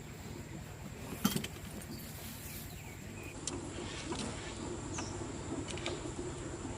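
Quiet outdoor ambience with a steady high insect drone over a low rumble, a short knock about a second in and a few faint ticks after.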